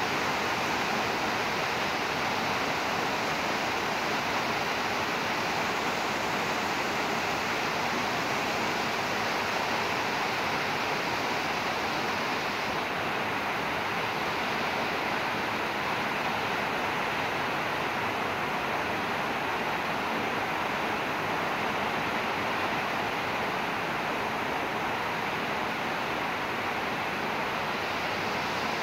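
Steady rain falling as an even, unbroken hiss, its higher part easing slightly about halfway through.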